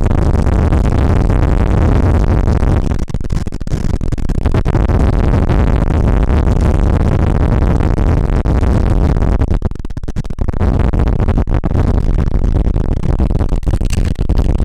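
Loud rush of high-speed wind on the microphone together with longboard wheels rumbling on asphalt during a fast downhill run. It dips briefly about three seconds in and again near ten seconds.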